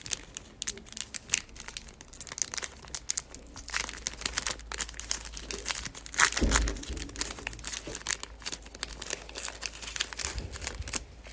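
Trading card pack wrapper crinkling and tearing as it is worked open by hand, a hard-to-open pack, with irregular crackles throughout and a louder bump about six and a half seconds in.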